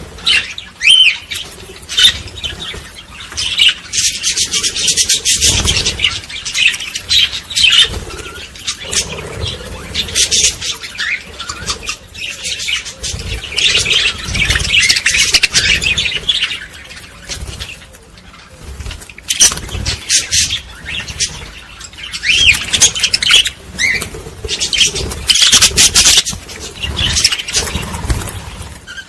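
Small birds chirping and twittering in dense, overlapping bursts that swell and ease in waves, with occasional low thumps underneath.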